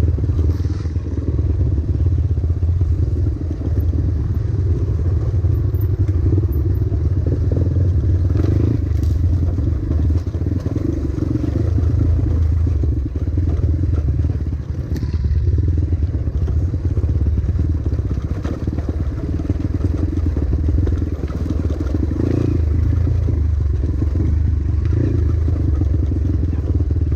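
Trail motorcycle engine running steadily under way, its note rising and easing a little as the rider works the throttle.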